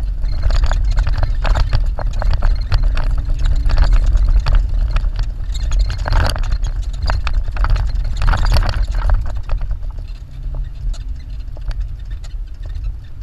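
A Jeep driving hard up a sand dune: a heavy low engine and drivetrain rumble under load, with constant knocking and rattling as the vehicle bounces over the sand. It eases off near the end.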